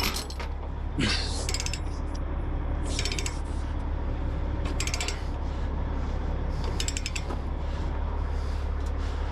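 Ratchet chain binder being cranked to tighten a load chain. Each stroke gives a short run of rapid clicks, about every two seconds.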